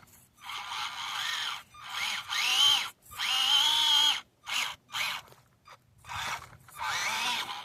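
Small electric motor and gears of an Axial SCX24 micro RC crawler whining in repeated bursts of throttle, with the pitch rising and falling in each burst and short pauses between them.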